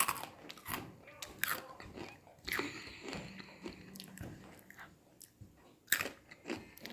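Close-up crunching and chewing of Takis rolled tortilla chips, in irregular sharp crunches as they are bitten and chewed.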